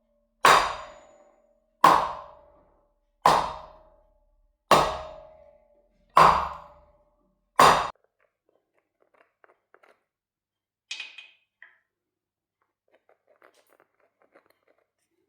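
Six evenly spaced hammer blows on steel, about one every second and a half, each ringing briefly. After them come faint clinks and rattles of small metal parts being handled.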